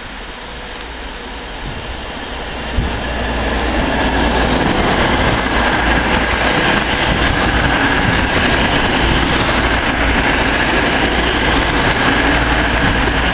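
Class 222 Meridian diesel multiple unit passing close by: the sound of its underfloor diesel engines and wheels on the rails grows over the first few seconds, then stays steady and loud as the carriages go past, with a sharp knock about three seconds in.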